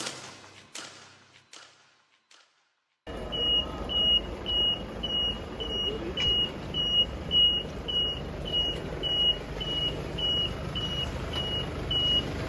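Background music fades out, then after a second of silence a high electronic beep starts repeating about twice a second over a low background rumble.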